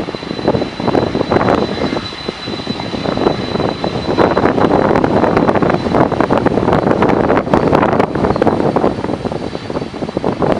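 Boeing 767 cargo jet's engines running, with a thin steady high whine over the roar, which grows louder about four seconds in. Strong gusting wind buffets the microphone throughout.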